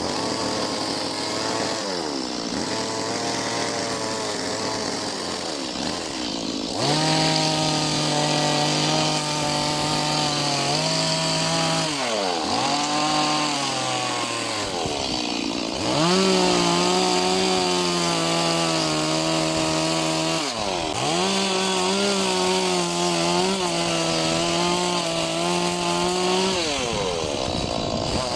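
Chainsaw engine running continuously while cutting into wood, its pitch dropping and climbing back every few seconds as the throttle is eased and reopened.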